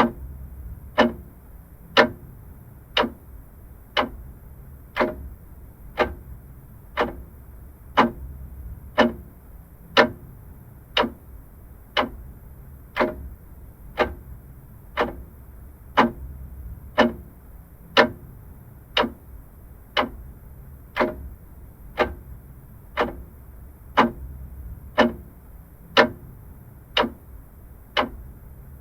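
Vintage mechanical clock ticking steadily, one tick a second, the beats alternating louder and softer in a tick-tock pattern.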